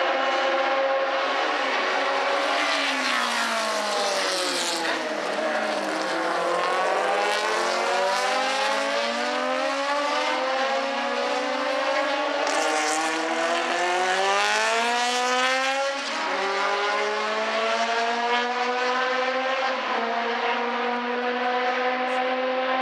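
Historic racing car engines at high revs, more than one running at once. Their pitch falls as they slow, then climbs steadily as they accelerate hard. There is a sharp drop in pitch about two-thirds of the way through, an upshift, before they run on at high revs.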